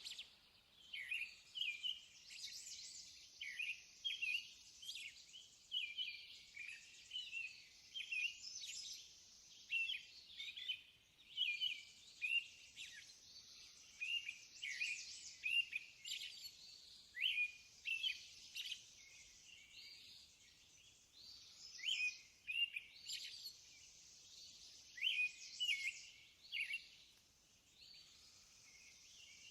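Small birds chirping and singing: many short, high calls in quick runs throughout, over a faint steady hiss.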